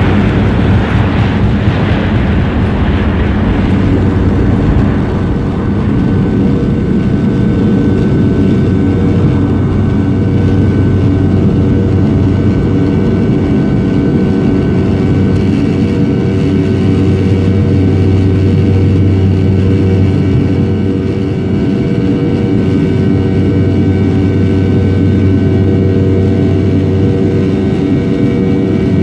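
Sukhoi Superjet 100's PowerJet SaM146 turbofan engines at takeoff power: a loud, steady drone carrying several steady tones, with a brighter rushing noise in the first few seconds that fades out.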